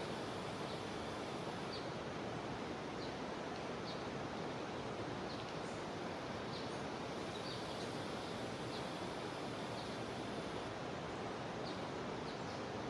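Jungle river water flowing steadily, with a few faint short high chirps scattered through.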